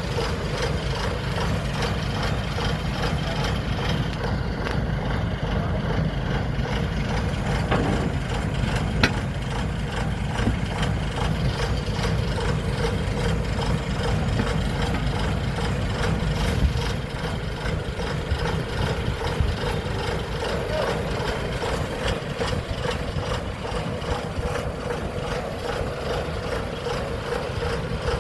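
Combine harvester engine running steadily at a constant speed, with a steady hum and a single sharp click about nine seconds in.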